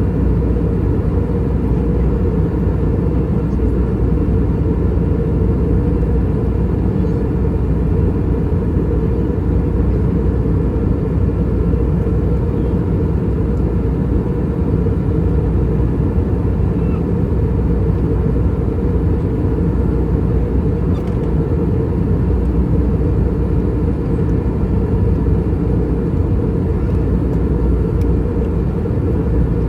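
Steady cabin noise of an Airbus A321 in flight: the drone of its IAE V2533-A5 turbofan engines and rushing airflow heard from inside the passenger cabin, a low rumble with a faint steady hum above it.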